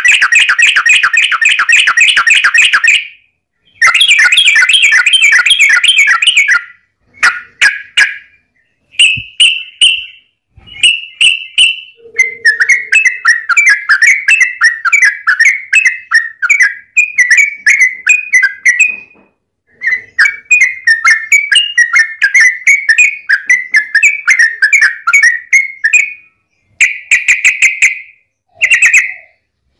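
Yellow-vented bulbul (trucukan) singing in long, rapid chattering runs of bubbly notes, broken by short pauses and a few shorter phrases.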